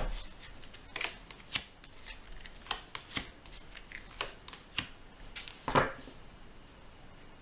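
Tarot cards being handled: a string of sharp card snaps and flicks that stops about six seconds in.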